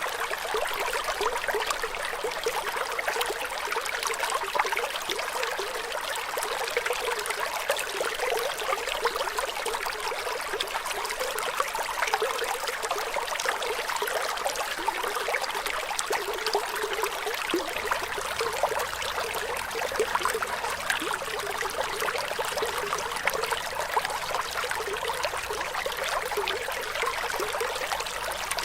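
Running water flowing and trickling steadily, a continuous hiss dense with small splashes.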